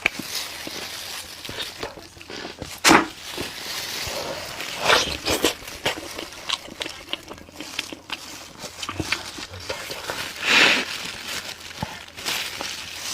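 Close-miked eating sounds of spicy braised meat: wet chewing and lip smacks with many small clicks, and two louder wet bursts, about three seconds in and again near the end.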